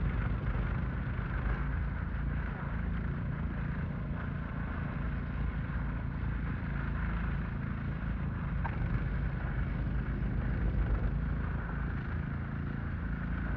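A vehicle engine running steadily, a low hum with no clear change in speed.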